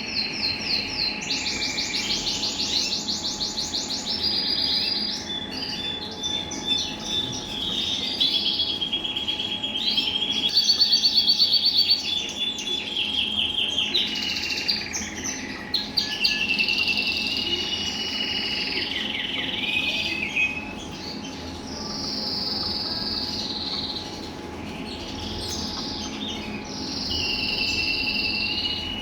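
Male colour canaries singing nearly without a break: long trills and rolls of rapidly repeated notes, phrase after phrase. A faint steady hum runs underneath.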